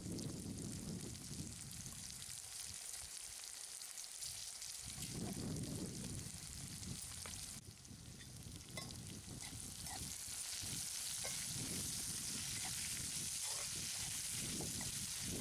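Sliced ivy gourd (tindora) sizzling as it fries in oil in a kadai. In the second half a steel spatula stirs it, with small scrapes and clicks against the pan.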